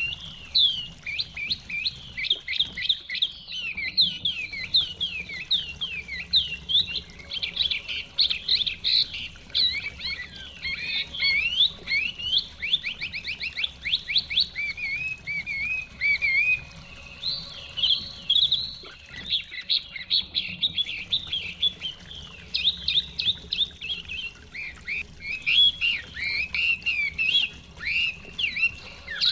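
Chinese hwamei singing a long, continuous song of rapid, varied whistled phrases, with quick runs of repeated notes and trills.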